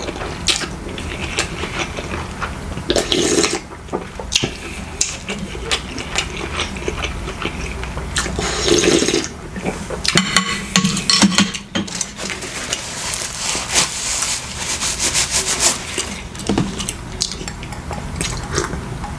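Close-miked eating sounds: wet chewing and slurping of saucy food, with many short clicks and crackles and the clatter of handling it.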